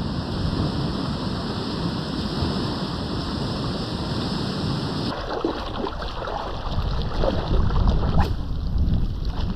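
Steady noise of surf and wind on the shore. About five seconds in it changes abruptly to rougher, gusty wind buffeting the microphone, with a few faint knocks.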